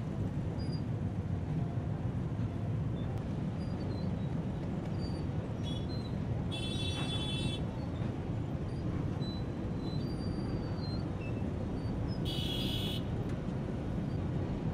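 Diesel-hauled passenger train crossing a steel truss rail bridge: a steady low rumble. Two short high-pitched tones, each about a second long, sound midway and again near the end.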